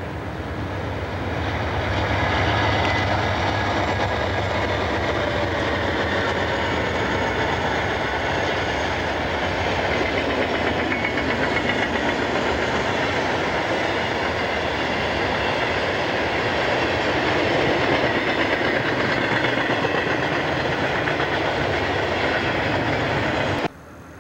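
Conrail diesel freight train passing close by: a steady, loud rolling noise from the locomotives and train that cuts off suddenly near the end.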